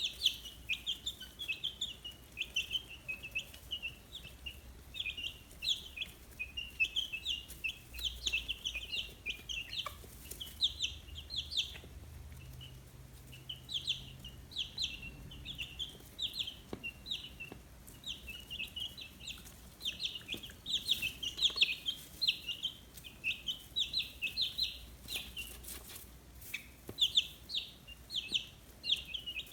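A brood of 15-day-old chicks peeping: many short, high peeps overlapping in a steady stream.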